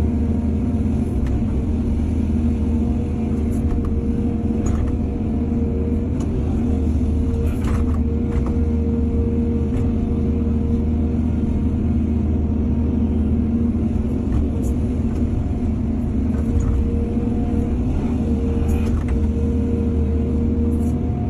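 Excavator's diesel engine running steadily under load with a low rumble and a steady higher hum, with a few brief knocks and scrapes now and then.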